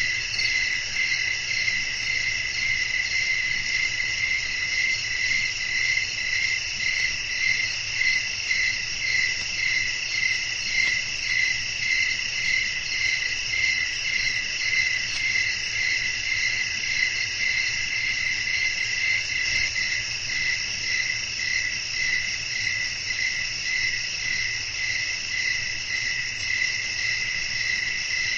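Night chorus of crickets chirping without a break in several overlapping pitches, the lowest voice pulsing in a slow, even rhythm.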